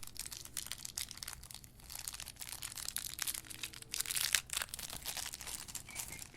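Packaging being handled during an unboxing, crinkling and crackling irregularly, with a few louder crackles about four seconds in.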